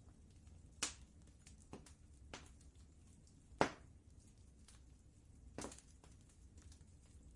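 Wood fire crackling in a fireplace: a few sharp pops at irregular intervals, the loudest about three and a half seconds in, over a faint steady low rumble.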